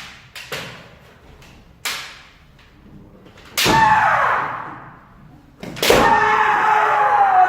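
Kendo sparring: sharp clacks of bamboo shinai strikes and stamping footwork on a wooden floor. Two long, falling kiai shouts come with strikes about three and a half and six seconds in, echoing in the hall.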